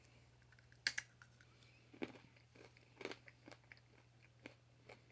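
Faint crunching of flour-coated peanuts being chewed: several short, sharp crunches at irregular intervals, roughly one a second.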